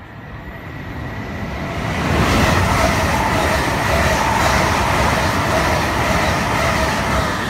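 Heathrow Express electric train passing through the station at speed: a rushing noise of wheels on rail builds over about two seconds, then holds loud with a steady whine from the train as it goes by.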